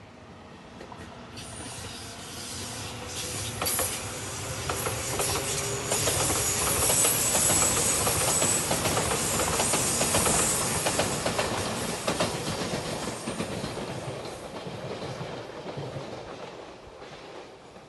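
Five-car JR Shikoku 8000 series electric limited express train passing. It rises to a loud run of wheels clicking over the rail joints midway and fades away near the end.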